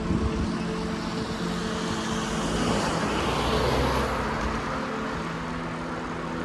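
Road traffic noise with a car passing close by, swelling and fading about three to four seconds in.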